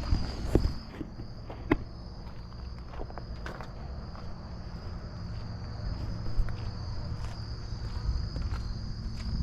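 Steady high insect chorus with a low rumble beneath it, broken by scattered knocks and thumps, the loudest about half a second in and near two seconds in.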